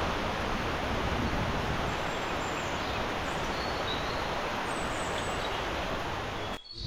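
Steady rain forest ambience: an even wash of noise with a few faint, short, high bird calls over it, cutting off abruptly near the end.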